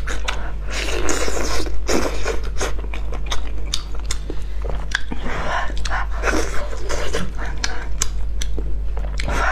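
Close-miked eating sounds: wet chewing of salt-baked chicken, with many small mouth clicks and smacks, and the meat being torn apart by gloved hands. A steady low hum runs underneath.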